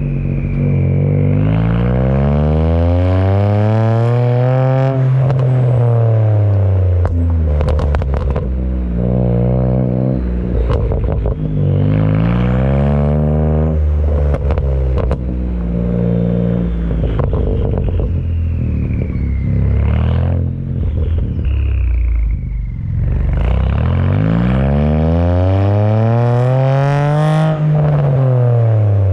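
BMW 335i's N54 twin-turbo inline-six through a custom dual 3-inch exhaust with an MG Motorsport muffler and Magnaflow sport secondary cats, revving: the engine note climbs steadily in pitch for several seconds and falls back, twice, with a lower, steadier stretch between. A few sharp cracks follow the first climb.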